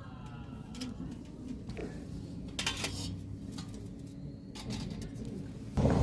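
A few light clicks and clinks, a second or so apart, over a low steady hum; a louder rushing noise starts just before the end.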